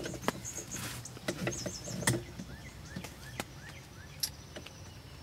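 Scattered close knocks and taps, with a bird calling in the background: a run of short upward-sweeping notes and a high twittering.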